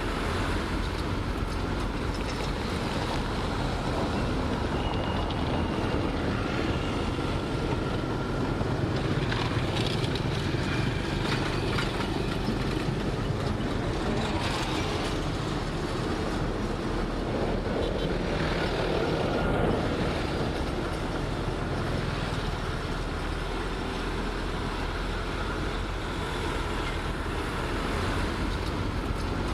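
Heavy earthmoving machinery running steadily: the diesel engine of a bulldozer or dump truck at work, a dense low rumble with no breaks.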